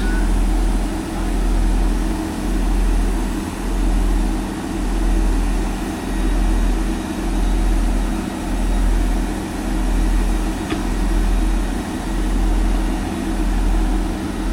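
Diesel engine idling: a steady low hum that throbs evenly about once every second and a quarter.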